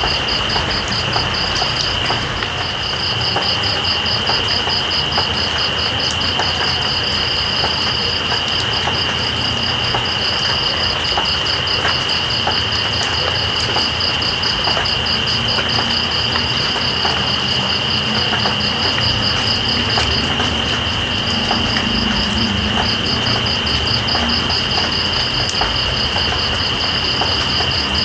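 Steady rain with scattered drips, under night insects: one insect keeps up a continuous high trill while another pulses in a rapid, even trill that drops out for a moment about twenty seconds in.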